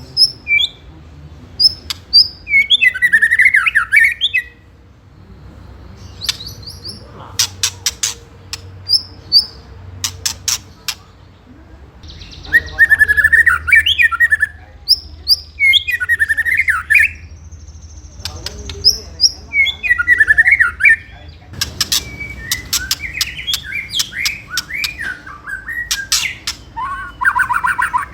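White-rumped shama (murai batu) calling in an agitated, fighting mood: series of dry rattling 'ketrekan' clicks alternate with short, loud whistled song phrases and sharp high notes, over and over.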